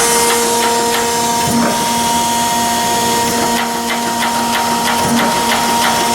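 Chevalier 1628AD surface grinder running a plunge-grinding cycle: a steady machine hum with a quick run of mechanical clicks several times a second.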